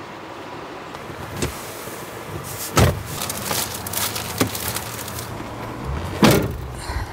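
Handling noise with two loud thumps, one near three seconds in and one about six seconds in, and clattering and rustling between them, over a steady background hiss.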